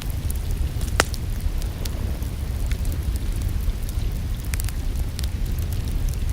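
Wood fire crackling and popping in a fireplace, with one sharp pop about a second in, over a steady low rumble and a soft hiss of rain.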